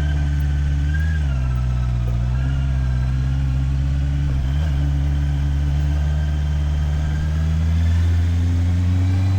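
Motorcycle engine running at steady, low cruising revs, easing off slightly about a second in and picking up a little near the end.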